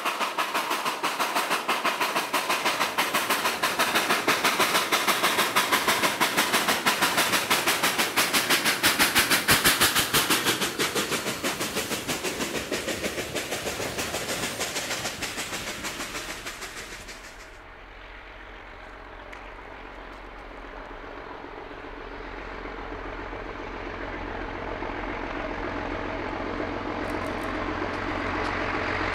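A narrow-gauge steam locomotive working upgrade through snow, its exhaust beats coming fast and loud as it passes close, loudest about ten seconds in, then the train's cars rolling by and fading. After a sudden change more than halfway through, a diesel locomotive's engine runs with a steady low hum in the distance, slowly growing louder.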